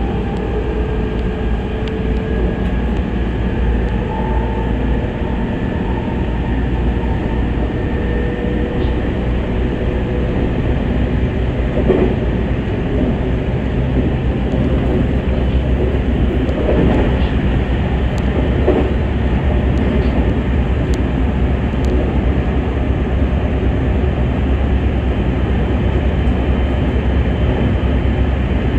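Electric train running, heard from inside the front cab: a steady rumble with a faint motor whine that drifts in pitch over the first several seconds. A few sharp wheel clacks come around the middle.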